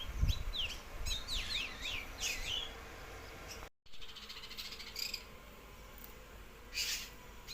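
Small birds chirping: a quick run of short, downward-sweeping high calls for the first few seconds, then after a brief cut a couple of short, sharp noisy bursts.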